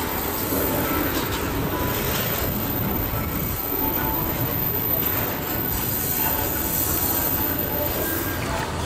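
Loaded coal freight wagons rolling steadily past, a continuous rumble of wheels on rails with brief thin wheel squeals here and there.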